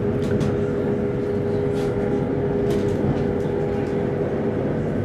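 Steady running noise inside a Chinese high-speed EMU train carriage in motion: a dense rumble with a steady mid-pitched hum, and a few faint clicks.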